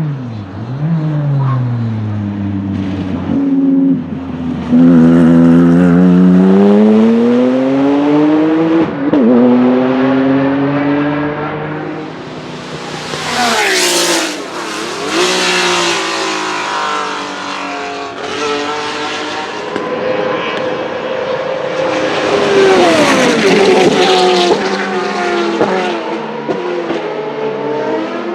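Racing car engines accelerating hard, pitch climbing and dropping back through gear changes, with cars passing close by, loudest about 14 and 23 seconds in.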